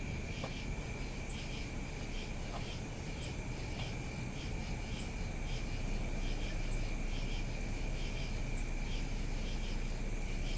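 Insects, crickets or similar, calling in a steady chorus: one continuous high trill with faster pulsing chirps above it, over a steady low rumble.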